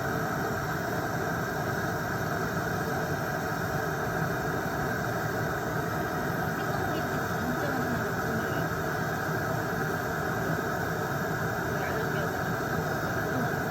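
Electric nail drill (e-file) running steadily at a constant speed while filing off gel polish, a continuous motor whine with no pauses.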